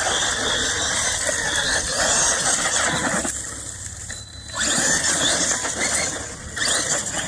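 CEN Reeper 1/7 scale brushless electric monster truck driving hard on dirt: a whining motor and spinning tyres throwing up dust and rocks. It comes in surges of throttle, easing off briefly a little after three seconds in and again near the end.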